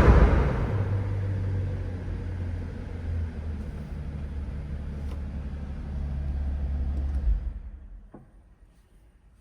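Mercedes-Benz SL65 AMG twin-turbo V12 settling from a rev to a steady, low idle rumble. The engine sound stops about seven and a half seconds in.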